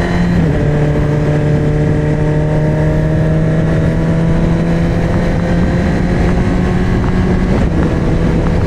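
2024 Suzuki GSX-R1000's inline-four engine running through a LeoVince slip-on exhaust under way, its pitch dipping slightly just after the start and then climbing slowly and steadily. Wind rushes over the microphone.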